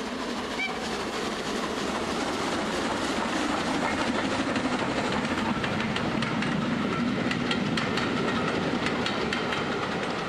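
A train running on rails: a steady rolling noise with quick clicks of wheels over the rail joints, growing louder over the first few seconds.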